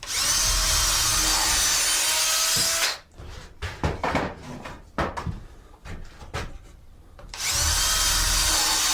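Power drill boring pilot holes into 2x4 wooden braces: two runs of drilling, about three seconds at the start and a shorter one near the end, with a few knocks and handling clicks between.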